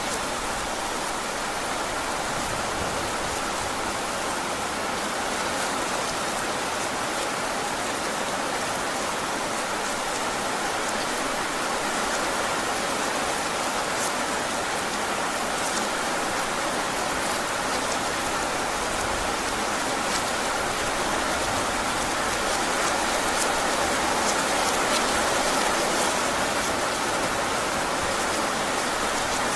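Heavy rain falling steadily, with scattered sharper drop taps over the even hiss, growing slightly louder toward the end.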